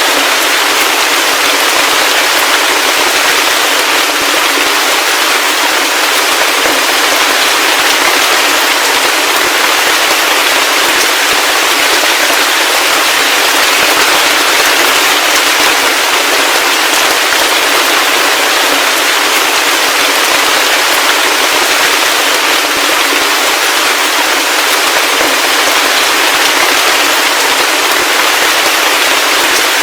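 Heavy rain falling steadily: a dense, even hiss of drops with a fine crackling patter and no low rumble.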